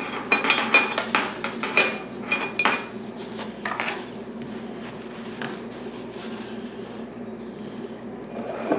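A spoon clinking and knocking against a bowl during a child's self-feeding: a quick run of ringing clinks in the first three seconds, then sparser, softer knocks.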